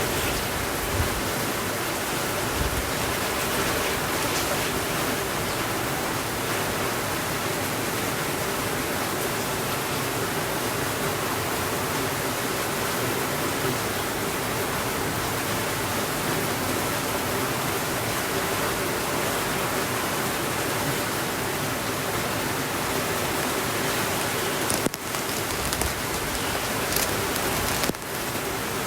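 Steady rain falling, an even hiss with no let-up, briefly dipping twice near the end.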